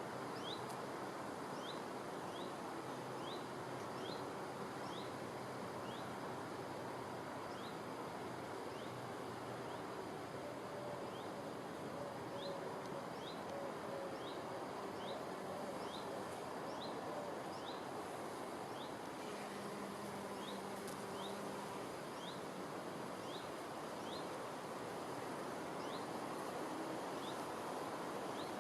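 Outdoor natural ambience: a steady hiss with a short rising chirp repeating about once a second, and faint intermittent buzzing.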